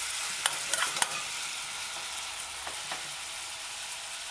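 Chicken pieces with chopped onion and scallion sizzling in hot oil in a metal saucepan, while a metal cooking spoon stirs them loose from the pan bottom, clinking and scraping against the pan a few times, mostly in the first second.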